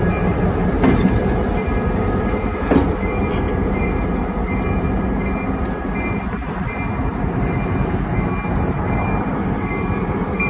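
Chesapeake and Delaware freight train rolling by with a steady rumble, and two sharp clanks about one and three seconds in.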